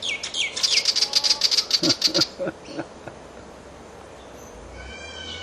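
A small bird's rapid, harsh scolding chatter, about eight sharp notes a second mixed with a few downward-sliding whistles, breaking off a little over two seconds in; a few short falling calls come near the end.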